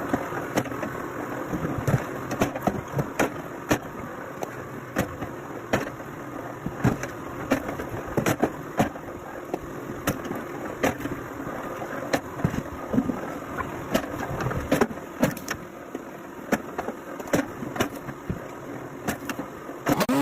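Machinery running steadily, with frequent irregular knocks and clattering on top.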